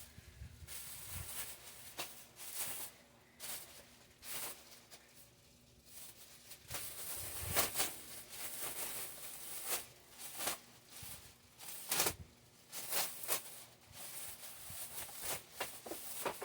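Packaging being opened by hand: irregular rustling, scraping and tearing of plastic and cardboard, with sharper rips about 7.5 and 12 seconds in.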